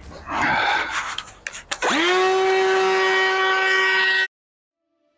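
Handheld electric power tool fitted with an eyeball carving bit: a short rough noise, then about two seconds in the motor spins up with a quickly rising whine that settles into a steady high pitch, cut off abruptly near the end.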